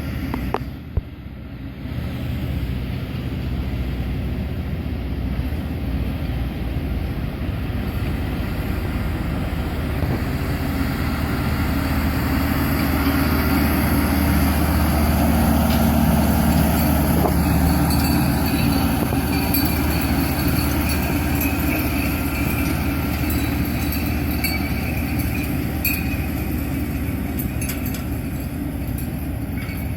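A tractor and its tow-behind turf top dresser running steadily, louder toward the middle, with a few light rattles in the latter part.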